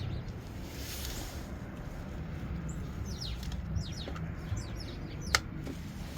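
Small birds chirping repeatedly in the background, short high chirps that fall in pitch, over a steady low rumble. One sharp click a little after five seconds in.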